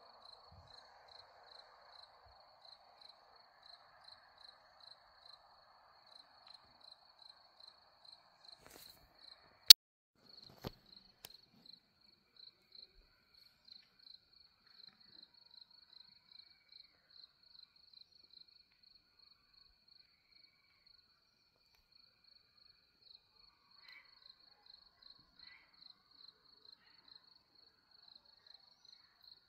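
A cricket chirping steadily, about two to three short chirps a second. A single sharp click cuts in about ten seconds in, the loudest thing heard, with a fainter click a second later.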